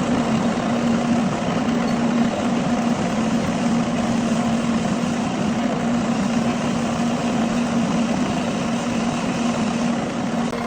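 Metal lathe running steadily with a constant hum and noisy whirr, as used in machining a pulley.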